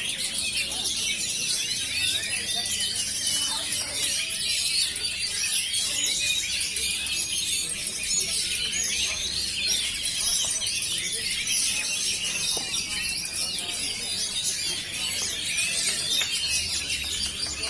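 Many caged songbirds singing at once in a dense, overlapping chorus of high chirps and warbling phrases, as when several contest birds sing together.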